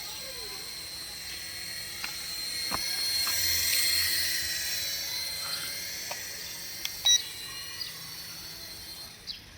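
A small electric toy motor whines high and hissy, swelling up and then dying away. Scattered clicks and a short sharp beep come about seven seconds in.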